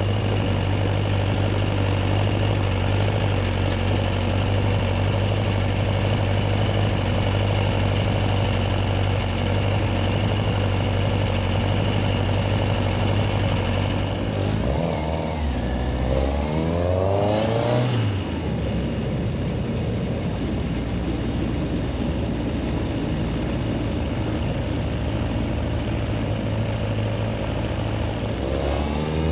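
Yamaha XJR1300's air-cooled inline-four engine running steadily, then revving up with pitch climbing in quick steps a little past halfway before settling back to a steady run; the revs rise again near the end.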